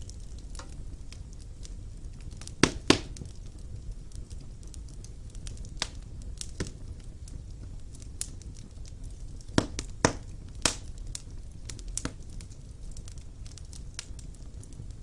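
Wood fire burning in a stone fireplace: a steady low rumble of flames with irregular sharp crackles and pops, the loudest pairs of pops about three seconds in and again about ten seconds in.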